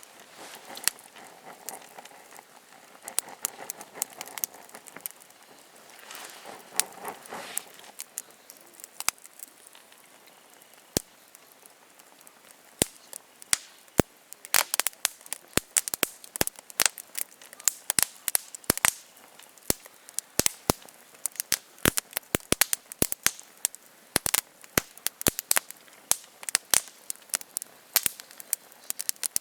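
Campfire of burning wood crackling, with sharp irregular pops that grow much more frequent from about halfway through. In the first few seconds there is a softer rustling.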